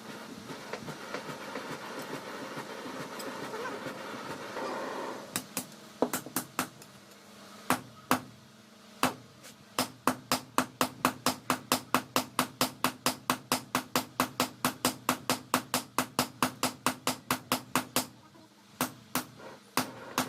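Hand hammer striking steel on an anvil, forging a leaf-spring blade: a few scattered blows, then a steady run of about three or four blows a second, each with a short ring, a brief pause, and a few more blows near the end. A rushing noise fills the first few seconds before the hammering starts.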